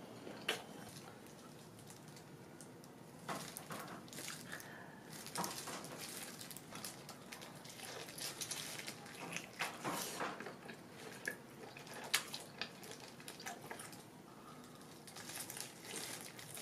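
A person biting and chewing cooked black tiger shrimp: irregular wet mouth clicks, smacks and small crunches.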